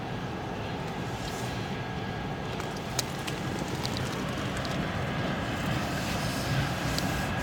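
Freight train of container flat wagons rolling past a level crossing: a steady noise of wagon wheels on the rails, with a single sharp click about three seconds in.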